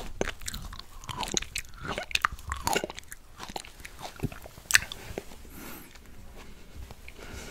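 A mouthful of fresh berries being chewed close to the microphone: many small crackling clicks and crunches, busiest in the first three seconds, with one sharp click just before five seconds in, then quieter.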